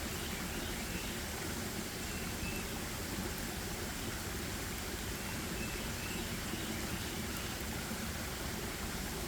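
Steady forest ambience: an even rushing noise with faint, short high notes now and then.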